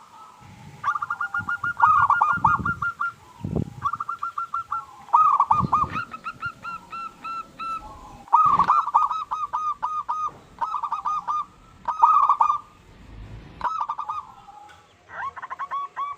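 Zebra dove (perkutut) singing: bouts of rapid, evenly repeated coo notes, one bout after another about every second or two, with a few low thumps underneath.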